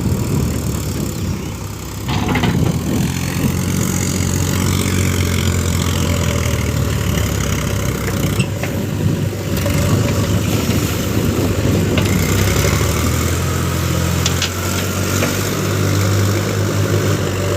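Heavy diesel engine of a tractor or backhoe loader working under load in mud. It gets louder about two seconds in and then runs steadily.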